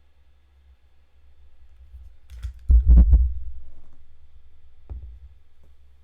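A quick cluster of dull, heavy thumps close to the microphone with a few sharp clicks mixed in, about halfway through, then a single knock about a second later.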